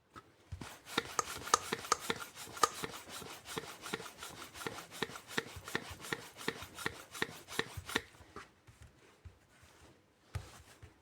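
Aluminium mini bike pump worked by hand in quick strokes: an even run of rubbing clicks, about four a second, that stops about eight seconds in, followed by a few faint knocks.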